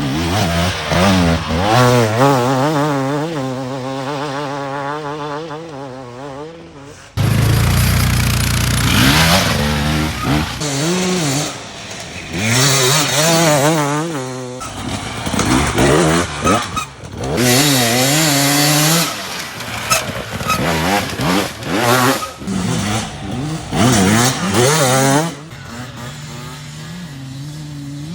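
Enduro dirt bike engines revving hard, the pitch swinging up and down rapidly as the throttle is worked, in several segments that change abruptly from one to the next.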